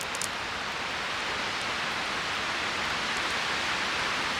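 Campfire burning with a steady hiss, a few sharp crackles near the start.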